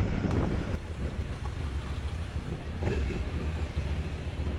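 Motorcycle engine running steadily with wind noise on the microphone: a low, even rumble.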